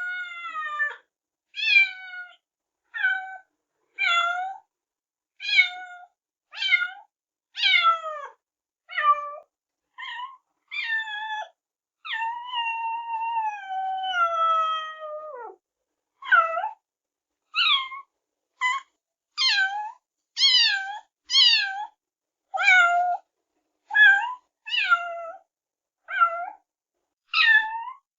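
Kitten meowing over and over: short, high-pitched meows that fall in pitch, about one a second. Near the middle comes one long drawn-out meow lasting over three seconds, which drops sharply at its end.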